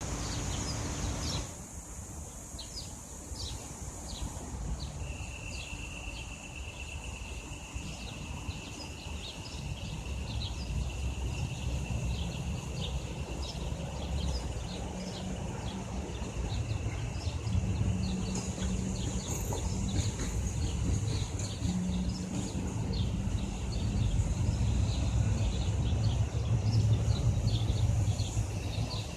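Many small birds chirping and twittering in short, rapid calls, with one long, steady high trill early on, over a low rumble that grows louder in the second half.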